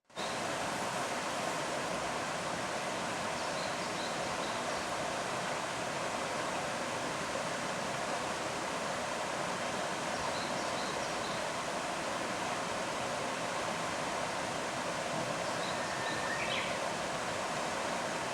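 Steady rushing of flowing stream water, with faint high chirps in three brief clusters.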